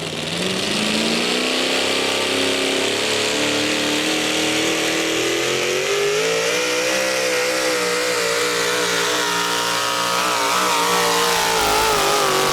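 Modified four-wheel-drive pulling truck's engine at full throttle, hauling a weight-transfer sled. Its pitch climbs steadily over the first several seconds, then holds high with small wavers and eases down slightly near the end as the load grows.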